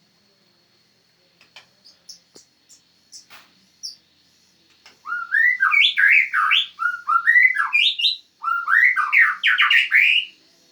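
White-rumped shama (murai batu) singing: a few soft chips, then about five seconds of loud, quick whistled phrases that rise and fall in pitch, stopping shortly before the end.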